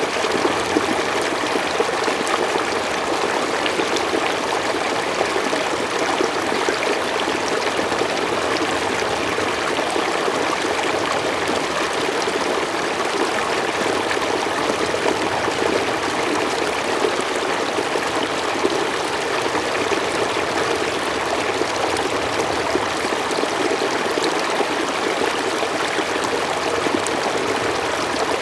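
Mountain stream flowing steadily, a constant rushing and trickling of water over rocks.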